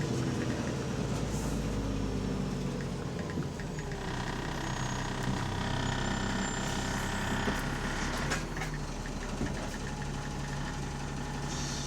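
Diesel engine of a double-decker bus running steadily, heard from inside the bus, on a bus whose exhaust leaks. A higher whine joins about four seconds in and fades a few seconds later.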